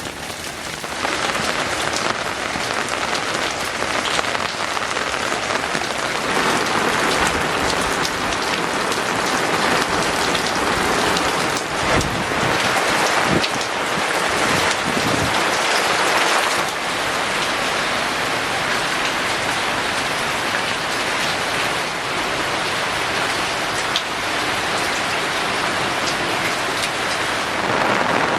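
Steady rain falling on surfaces, a dense even hiss that thickens about six seconds in and eases off again past the middle. A few sharp low knocks stand out around the middle.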